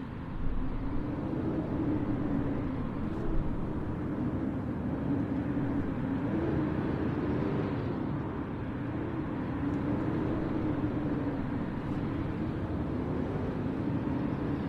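Blizzard wind blowing steadily, with a deep rumble and a low howl that wavers slowly in pitch.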